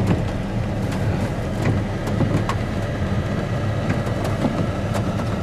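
Pickup truck running, heard from inside the cab: a steady low engine and road drone, with scattered light clicks and knocks.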